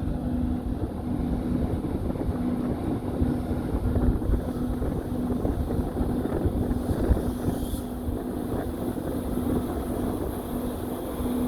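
Train running with a steady low rumble and a steady, slightly pulsing hum, with wind noise on the microphone.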